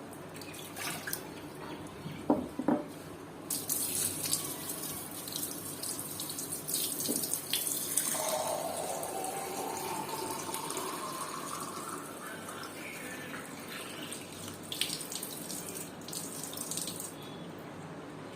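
Water running from a tap into a container, a steady rush whose pitch rises as the container fills. A couple of sharp knocks come before the water starts.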